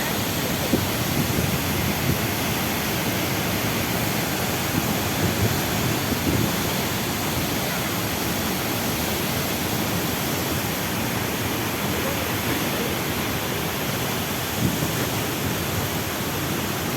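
Waterfall's steady rushing noise, an even wash of falling water that holds at one level throughout.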